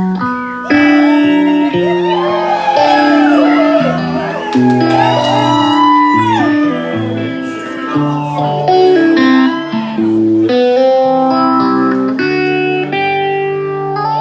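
Live band playing the song's instrumental outro: a guitar lead with bending, sliding notes over held chords and bass.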